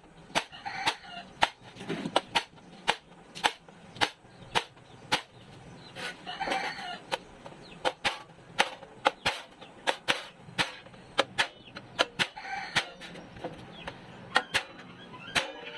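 Hammering: sharp strikes, about two a second, keep on throughout. A rooster crows about three times behind them.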